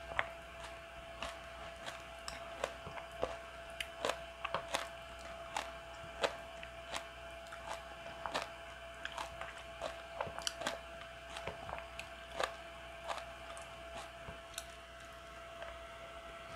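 Close-miked chewing of bean sprout and carrot porridge: small, irregular crunches and mouth clicks. Now and then a wooden spoon taps or scrapes a ceramic bowl.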